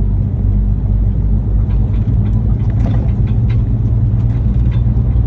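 Truck engine running steadily while driving, a low even drone with road noise.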